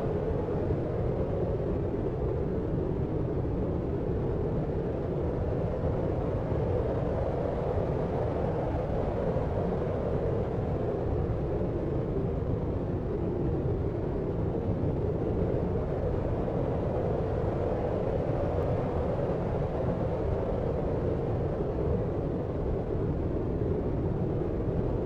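Steady deep noise, even and unchanging, with its weight low in pitch and no distinct events: a sleep-aid noise track.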